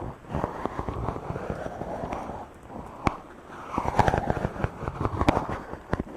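Fingers rubbing and stroking directly on a microphone: a close, crackling, scratchy rustle studded with sharp clicks. It eases off briefly near the middle, then picks up again.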